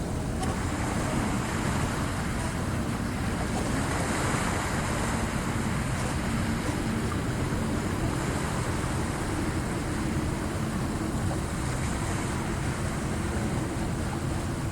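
Incoming-tide waves washing steadily against the shore, with a faint steady low hum beneath the wash.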